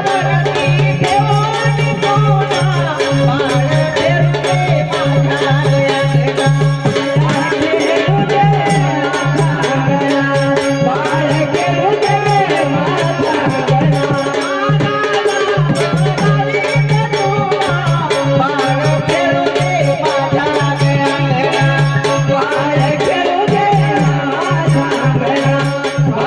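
Marathi devotional folk song with a lead voice singing over a held organ drone, a steady sambal drum beat and jingling rattle percussion.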